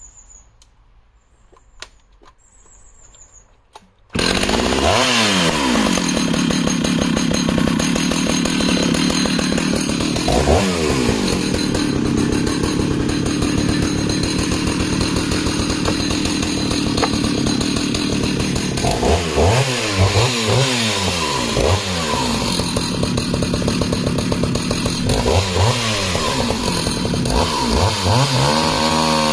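Jonsered 820 81cc two-stroke chainsaw starting up suddenly about four seconds in, after a few light clicks, and running hard while cutting discs from a log. Its revs sag and recover several times under load.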